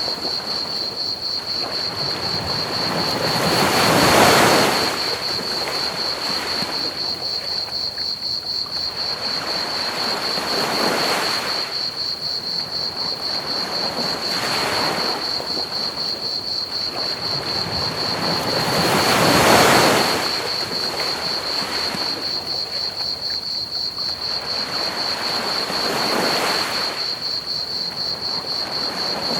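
Ocean waves breaking on a beach, a swell of surf every few seconds, strongest about 4 and 20 seconds in. Under it runs a steady, high, rapidly pulsing chorus of crickets chirping.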